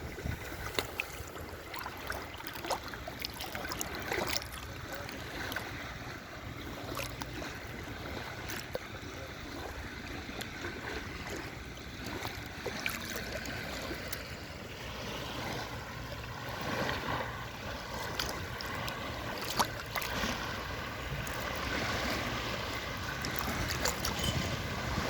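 Sea waves washing in steadily, with wind and many small scattered clicks over them.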